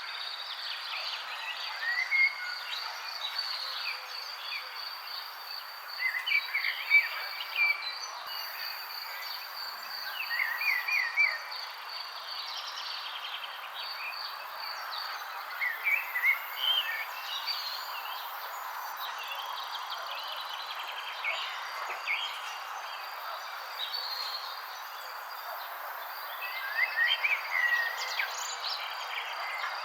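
Songbirds chirping in scattered short bursts of quick notes, the loudest near the start, at about a third of the way, and again near the end. Beneath them runs a steady high, pulsing insect trill over a constant soft hiss.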